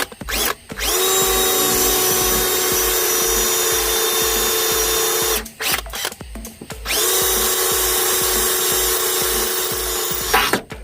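Electric drill running in two long stretches, each spinning up quickly to a steady whine, with a short stop between them. This is likely drilling into the mower-deck spindle housing to add a grease fitting.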